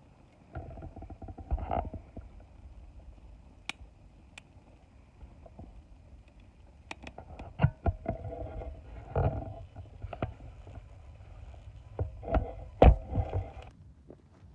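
Wood fire crackling with scattered sharp pops, among irregular knocks and clunks of wood being handled, the loudest knocks near the end.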